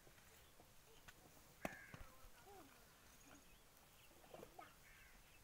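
Near silence: faint, scattered short bird chirps, and one sharp tap about one and a half seconds in.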